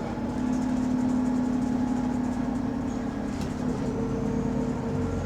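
Diesel engine of a double-decker bus running under way, heard from inside, a steady drone whose pitch shifts slightly; this bus has an exhaust leak.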